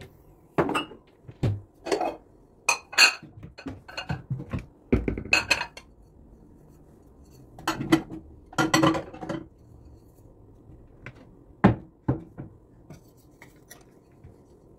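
Dishes, pots and cutlery being handled in a kitchen: a run of clinks and knocks, a short pause, another cluster, then a single sharp knock.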